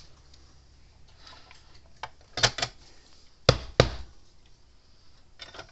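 Sharp knocks and clicks of tools or parts being handled on a workbench: two about two and a half seconds in, then two louder ones about a second later.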